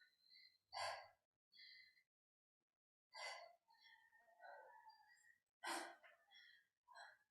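Faint, sharp exhales of a person breathing out in time with hammer-curl reps, three breaths about two and a half seconds apart.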